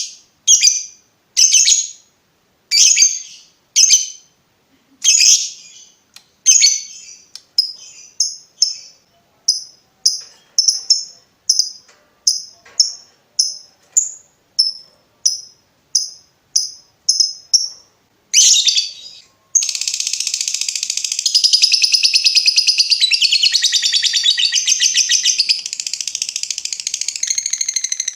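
Lovebird calling: a string of separate sharp chirps, slow at first and then about two a second, followed from about two-thirds in by a continuous rapid chattering trill, the long 'ngekek' trill.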